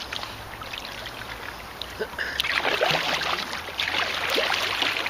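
Kayak paddling: water splashing and trickling off the paddle blades, growing louder about halfway through.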